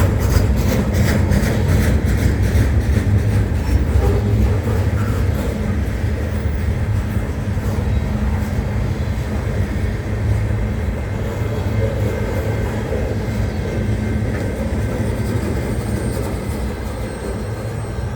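Loaded freight train rolling past, its cars' wheels giving a steady low rumble on the rails, with a quick run of clicks in the first few seconds. The sound slowly fades.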